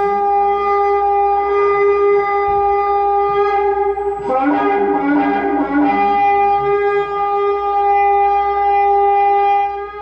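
A shofar (ram's horn) blowing long, sustained blasts. About four seconds in the blast breaks and a lower second tone sounds briefly, then one long steady note holds and stops just before the end.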